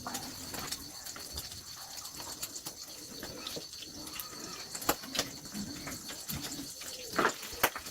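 A dove cooing, low and repeated, with a few sharp knocks about five and seven seconds in.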